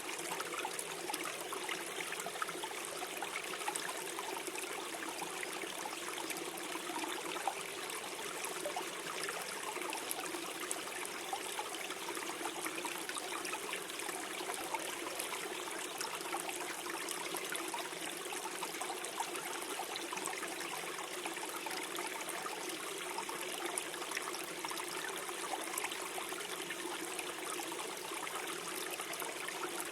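Small stream flowing and gurgling over stones, a steady trickling babble with no break.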